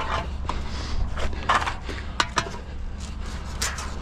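Scattered knocks, clunks and short scrapes of heavy scrap metal being shoved and shifted into a loaded trailer, over a low steady hum.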